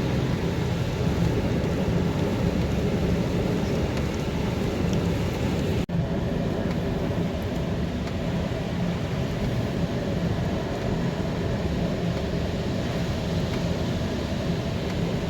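Steady road and engine noise of a car being driven, heard from inside, with a low rumble. The sound drops out for an instant about six seconds in.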